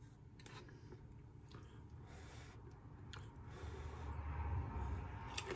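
A person eating a corn chip scooped with chili: a few faint clicks, then low, muffled chewing starting about three and a half seconds in.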